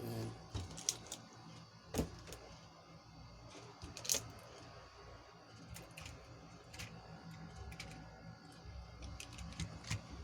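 Scattered clicks and knocks of plastic toys being handled, the loudest about two and four seconds in.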